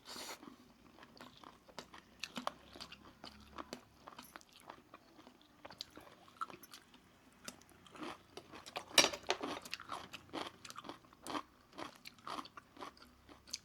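Close-up eating sounds of a roast chicken meal: biting, chewing and crunching, with irregular wet clicks and crackles, a louder run of crunches about nine seconds in.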